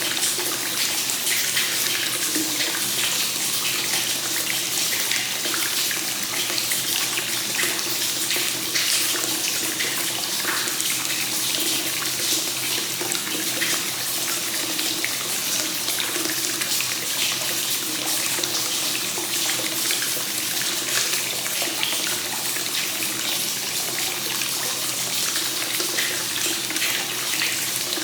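Hot spring source water pouring continuously into a bath, free-flowing (kakenagashi), a steady splashing flow with no pauses.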